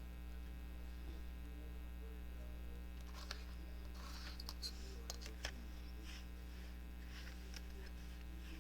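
Steady electrical mains hum, with a few faint clicks and short rustles of paper being handled between about three and six seconds in.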